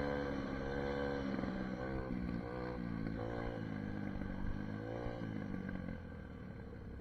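SSR 150 dirt bike engine running at a steady speed, then revving up and down several times from about a second in, and dropping lower and quieter near the end.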